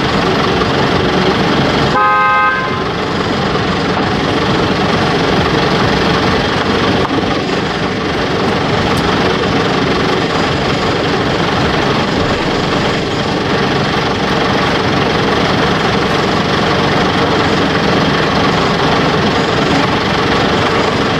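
Steady, loud motor-traffic noise, with a single short vehicle horn toot about two seconds in.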